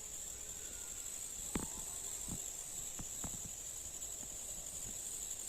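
Insects in an evening field keeping up a steady high-pitched chirring, with a few soft clicks or knocks, the loudest about a second and a half in.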